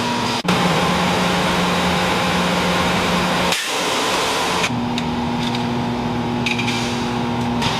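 A steady machine hum with a few low held tones, cut off suddenly a couple of times and coming back at a slightly different pitch.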